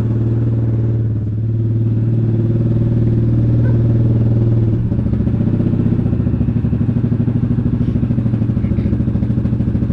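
Yamaha Grizzly ATV's single-cylinder four-stroke engine running steadily. About five seconds in, its note drops into an even pulsing beat as the machine slows toward idle.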